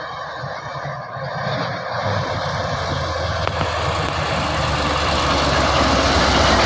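A heavy truck's engine running on an uphill climb, with tyre and road noise. The engine's low rumble grows steadily louder from about two seconds in as the truck draws near.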